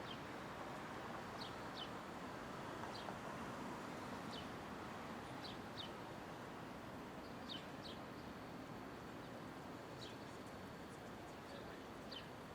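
Steady hum of city street noise, with a bird giving short high chirps every second or so, often in quick pairs.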